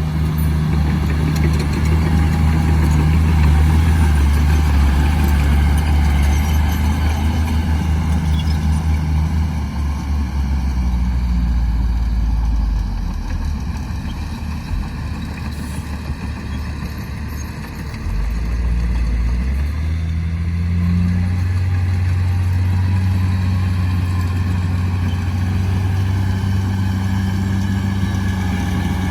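Heavy diesel engine of an earthmoving machine running under load. About a third of the way in it drops to a lower, quieter speed for several seconds, then picks back up and runs steadily again.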